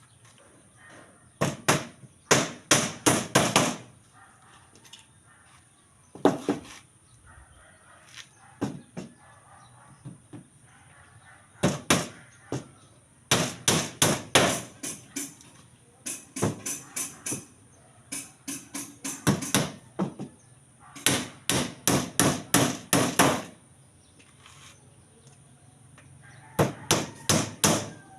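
Hammer blows struck in quick runs of several strikes, about three to five a second, with short pauses between the runs.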